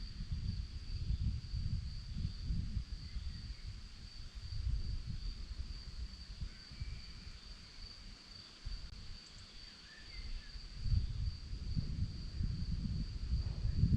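Crickets trilling in one steady high, unbroken pitch, under gusts of wind rumbling on the microphone. A few faint, short bird chirps come through now and then.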